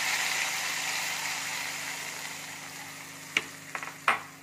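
Wet ground onion-tomato-ginger-garlic masala paste sizzling in hot oil in a black iron kadai just after being poured in. The sizzle slowly dies down as the oil cools under the paste, with two sharp clicks near the end.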